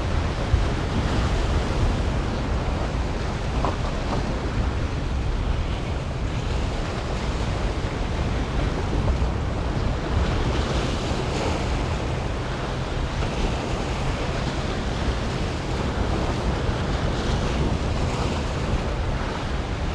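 Wind buffeting the microphone over the steady wash of Gulf surf against the jetty, a continuous rushing noise with a heavy low rumble.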